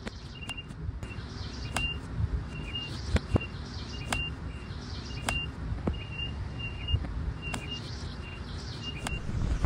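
A bird calling outdoors: one short, high chirp repeated about once or twice a second, over a low rumble, with a few sharp clicks scattered through.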